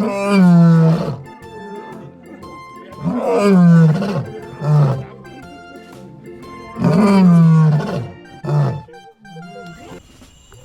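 Lion roaring: three long roars that fall in pitch, each followed by a shorter grunt.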